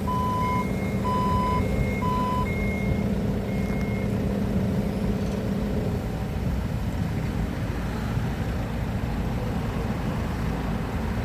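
Forklift's reversing alarm beeping in two alternating pitches over its running engine. The beeping stops about four seconds in, and the engine's steady hum drops to a lower, rougher note about six seconds in.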